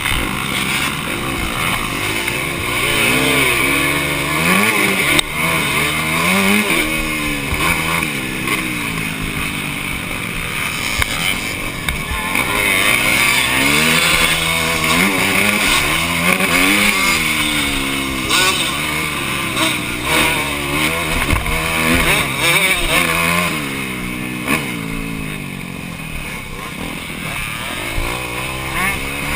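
Motocross bike engine heard on board, its revs repeatedly climbing and dropping as the rider opens and closes the throttle and shifts gears.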